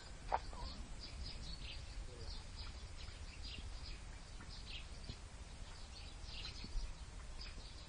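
Small birds chirping, with many short high calls repeated throughout, over a low rumble. A single sharp click about a third of a second in is the loudest moment.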